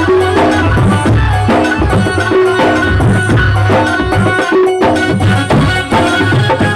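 Loud live Indian devotional band music with a melody instrument over tabla-style hand drum and percussion, played at a sound check.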